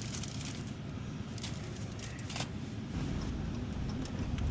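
Car cabin noise while driving: a steady low road and engine rumble that gets louder about three seconds in, with a few faint clicks.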